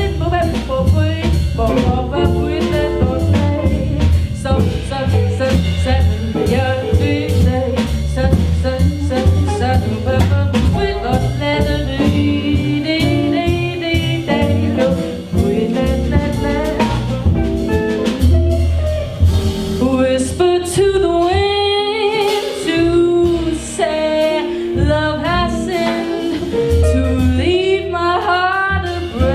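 Jazz music from a small band with a drum kit, with a woman's voice singing over it.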